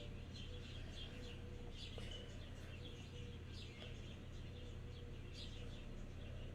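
Birds chirping, many short chirps scattered throughout, faint over a steady low hum.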